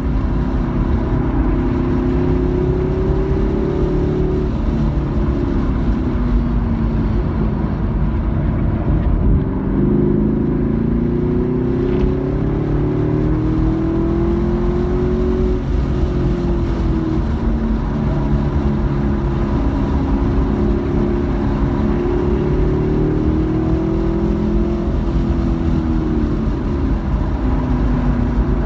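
Car engine heard from inside the cabin while driven on a race track. Its pitch falls and rises several times as the car slows for corners and accelerates again, over a steady low rumble.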